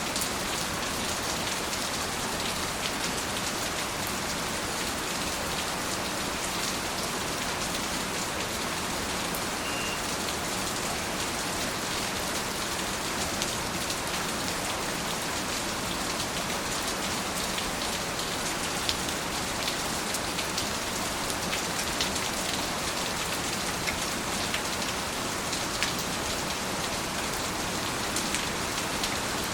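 Steady rain falling, an even rushing hiss with scattered individual drops ticking through it.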